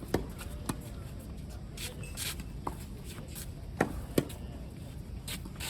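Tennis rally: the ball struck by rackets and bouncing on the court, a handful of sharp knocks with the two loudest close together a little before the end, among short scuffs of shoes on the court.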